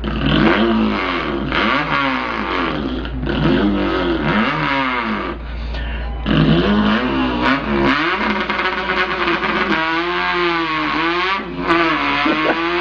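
A man's voice imitating an import car engine revving up through the gears. The pitch climbs and then drops back several times, with short breaks between the runs.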